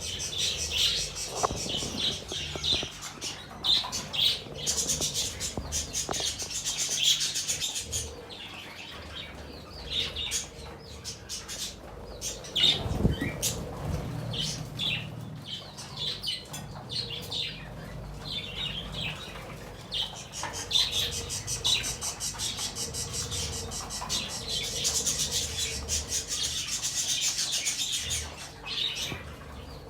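Budgerigars chirping and chattering, with a dense run of short, high calls.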